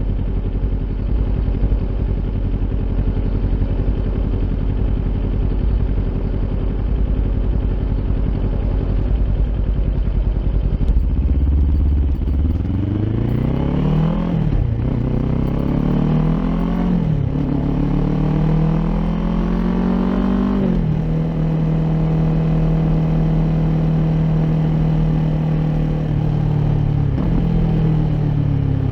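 Kawasaki Ninja 400's parallel-twin engine through an Akrapovic aftermarket exhaust, idling low and steady for about eleven seconds. It then accelerates hard through three upshifts, the pitch climbing and dropping sharply at each shift, before settling into a steady cruise with a brief dip near the end.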